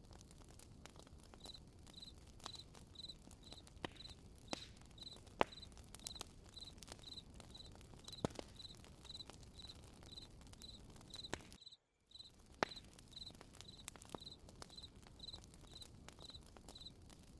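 Campfire crackling with irregular sharp pops, under a cricket chirping steadily about twice a second. The sound cuts out completely for a moment near the middle.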